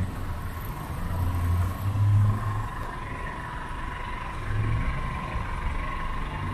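Street traffic: vehicle engines rumbling past in a few swells, with a steady thin whine underneath.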